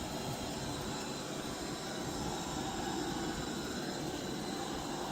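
Deenkee DK600 robot vacuum running steadily: an even whir of its suction fan and brushes.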